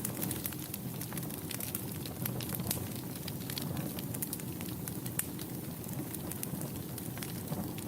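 Wood fire in a fireplace burning steadily: a low rushing rumble of flames with frequent sharp, irregular crackles and pops.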